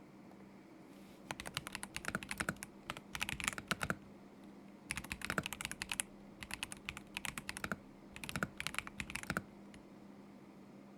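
Typing on a KZZI K75 Pro mechanical keyboard with Moment linear switches: quick runs of key clicks in four bursts separated by short pauses, starting about a second in and stopping a couple of seconds before the end.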